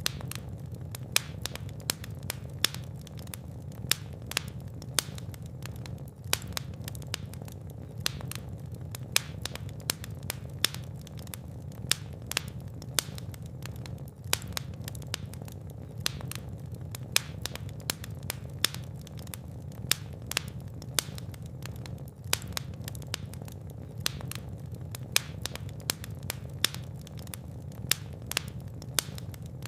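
Fire crackling in a fireplace: frequent sharp pops and snaps at an uneven pace over a steady low rumble of the flames.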